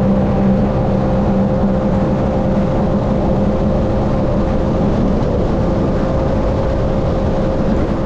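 Sea-Doo personal watercraft running flat out at a steady engine pitch, under a constant rushing noise of wind and water. The sound cuts off suddenly near the end.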